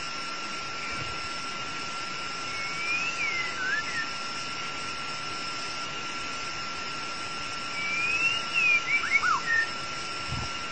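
White-rumped shama singing two short whistled phrases, each gliding up then dropping, about three seconds in and again about eight seconds in. Under them runs a steady high hiss and a faint constant thin tone.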